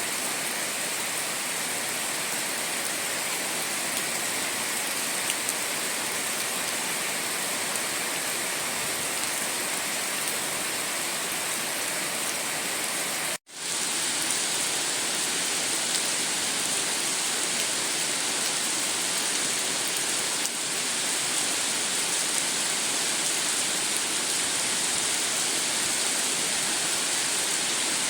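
Steady rain falling, an even hiss. It cuts out for an instant about halfway through and comes back with a slightly brighter hiss.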